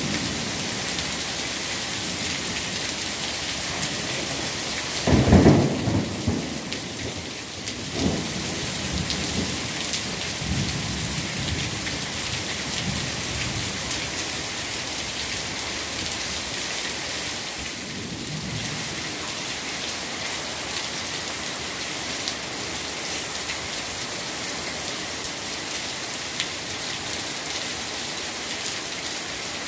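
Steady heavy rain falling on surfaces, with thunder rumbling loudly about five seconds in and softer rumbles a few seconds later and again near the middle.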